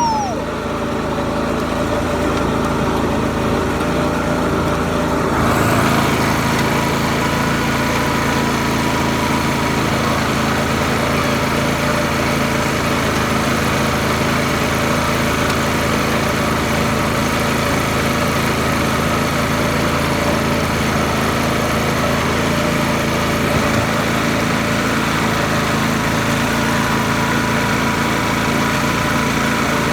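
Garden tractor's small engine running steadily, picking up a little about five seconds in and then holding.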